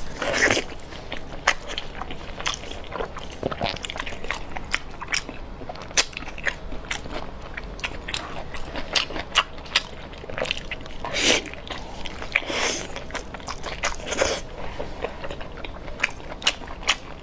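A person biting and chewing braised gelatinous meat at close range: a run of short, wet clicks and smacks from the mouth, with a few longer, louder bursts near the middle.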